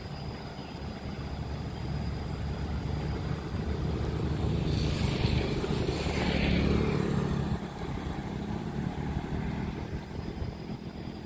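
Steady low engine rumble, with a vehicle passing close by about five seconds in, its whoosh falling in pitch as it goes past.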